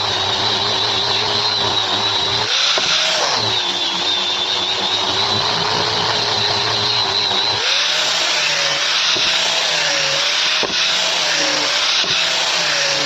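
Electric power sander sanding a wooden cutting board: a steady motor whine over a gritty rubbing noise, its pitch dipping and recovering several times as the load on the board changes.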